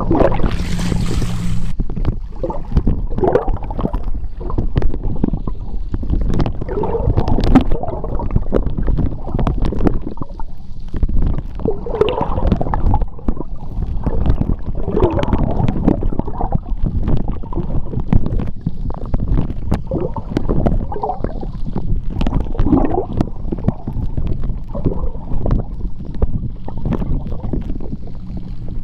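Sea water heard from a microphone held underwater: a constant low rumble of moving water with gurgling bubbles swelling and fading every second or two, and many short clicks and crackles throughout.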